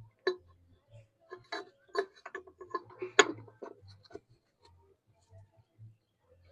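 Irregular small clicks, taps and clinks of metal parts and hand tools being handled while a new hydraulic screen is fitted into a tractor's rear housing, with a sharper knock about three seconds in.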